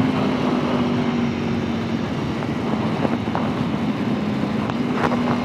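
Motorcycle cruising at a steady speed: wind rushing past the microphone over a steady engine hum.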